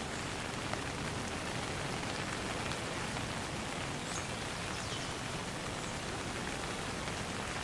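Steady rain falling on a pond, an even hiss with scattered patter of individual drops.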